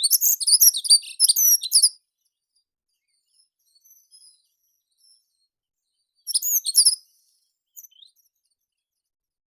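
A songbird singing two quick, high phrases of rapidly repeated notes, the first about two seconds long at the start, the second shorter about six seconds in, with faint chirps between and a couple of brief notes near the end.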